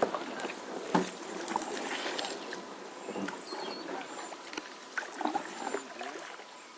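Kayak paddles splashing in shallow creek water and striking the bottom, giving a few sharp knocks.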